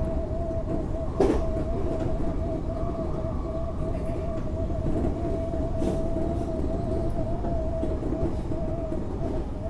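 Odakyu 8000-series electric commuter train running at steady speed, heard from inside the car: a continuous rumble of wheels and running gear with a steady, slightly wavering whine over it, and one sharp click about a second in.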